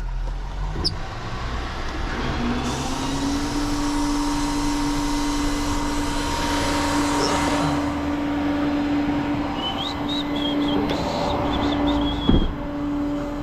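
Vehicle engine idling with a steady tone over it, and a single thump near the end.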